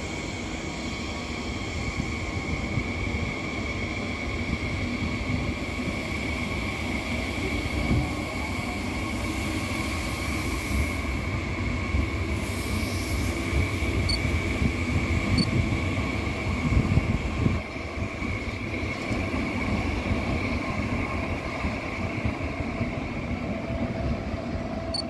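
Passenger train running on the rails: a steady low rumble with a high, steady whine throughout and a few louder knocks.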